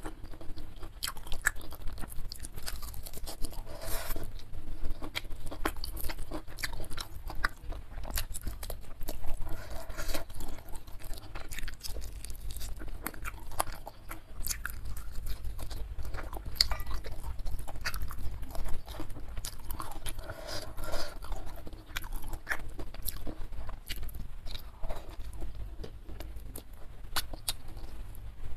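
Close-up chewing and crunching of spicy smashed fried chicken (ayam geprek) eaten by hand: a steady run of small crunches and clicks from the mouth.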